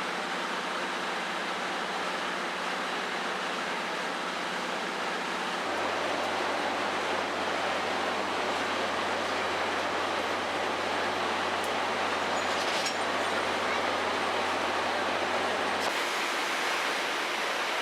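Steady rushing noise of a train running on rails. A low hum under it changes about six seconds in and again near the end.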